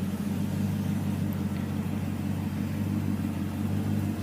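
1996 Morgan Plus 8's Rover V8 idling steadily.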